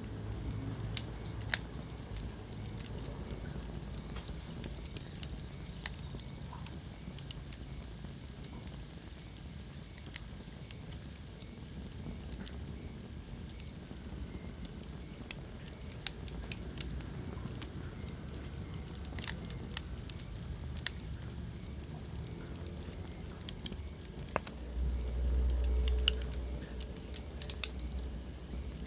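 Wood fire in a fireplace crackling, with scattered sharp pops and snaps over a low steady rush of burning. A louder low rumble swells for about two seconds near the end.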